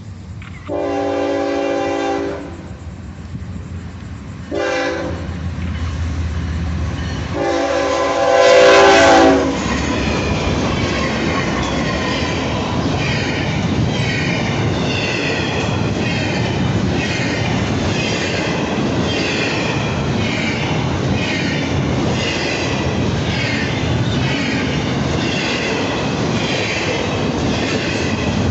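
Locomotive air horn sounding three blasts, long, short, long, as the train approaches. The train then passes close by: a steady heavy rumble with the wheels clicking rhythmically over the rail joints.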